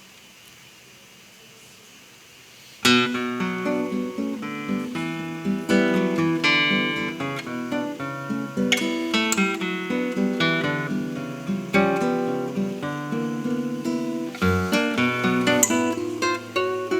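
A quiet room for nearly three seconds, then a solo acoustic guitar begins a tango with a sharp opening chord, playing a steady run of plucked notes and chords.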